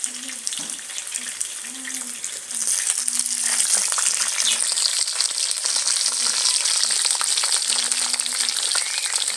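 Pieces of kienyeji chicken deep frying in hot oil: a dense, crackling sizzle full of tiny pops, which grows louder about two and a half seconds in.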